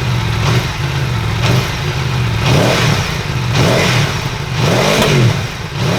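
Aprilia Tuono V4 1100 Factory's V4 engine running on the stand and revved in a series of throttle blips, each rev rising and falling in pitch, the later ones longer.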